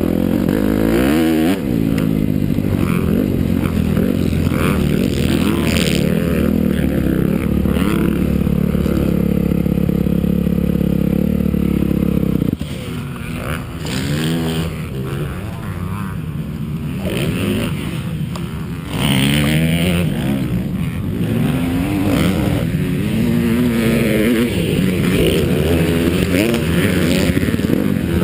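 Honda CRF250R motocross bike's four-stroke single-cylinder engine running hard, its pitch rising and falling as the throttle opens and closes. About halfway through it eases off for several seconds, then opens up again.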